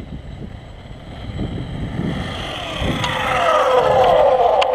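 Electric 1/5-scale Rampage V3 RC truck on 8S speeding past. Its high motor and drivetrain whine grows louder and drops sharply in pitch as it goes by, loudest near the end.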